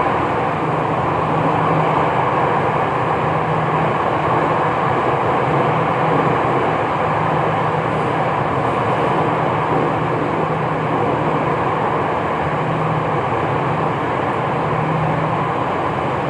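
Jakarta MRT train running between stations, heard from inside the carriage: a steady rumble of wheels on rail, with a low hum that fades in and out.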